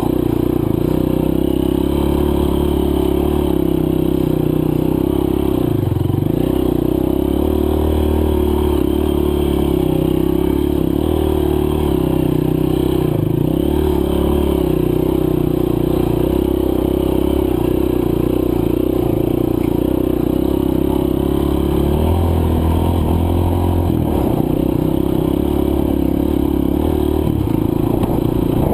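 Honda CRF230F dirt bike's air-cooled single-cylinder four-stroke engine running under varying throttle while riding loose dirt. Its pitch dips and climbs back several times as the throttle is rolled off and on.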